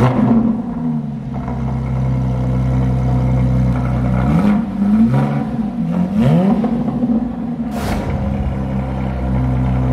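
Car engine idling, with two short revs that rise in pitch about four and six seconds in, and one sharp crack a little before eight seconds.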